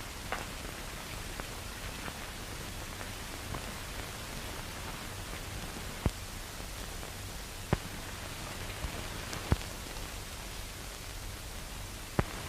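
Steady hiss and crackle of an old film soundtrack with a low hum underneath, broken by a few sharp isolated clicks.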